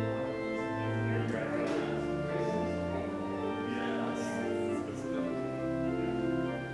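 Organ music: sustained chords over held bass notes that change about once a second.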